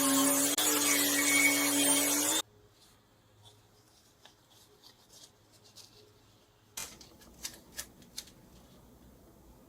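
A small electric power tool running steadily against wood, sanding or grinding, with a steady motor hum under a loud hiss; it cuts off suddenly about two and a half seconds in. After that only a few light clicks and taps are heard.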